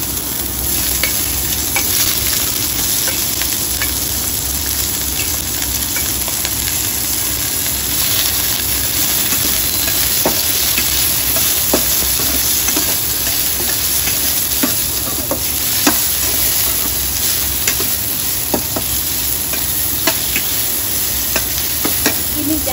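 Sliced ginger frying in hot oil in a stainless steel wok: a steady sizzle, with scattered light clicks throughout.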